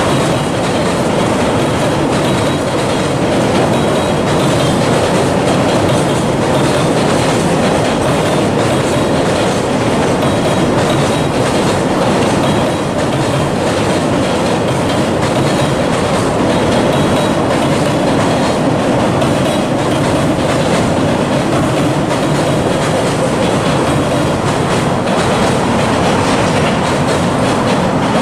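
Long freight train passing close by, its wagon wheels clattering steadily over the rails throughout.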